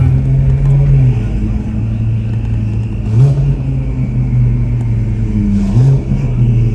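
Ferrari 488 Pista's twin-turbo V8 with an aftermarket Ryft exhaust, running at a steady low engine speed under way. The revs rise briefly twice, about three seconds in and again near the end.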